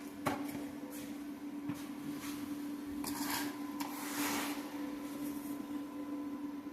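A cut-loose steel exhaust pipe knocking and scraping as it is wrestled out from under a truck: a few sharp clanks early, then two short scrapes, over a steady low hum.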